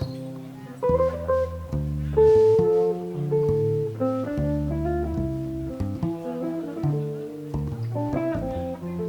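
Jazz guitar playing a moving line of plucked single notes and chords over low bass notes.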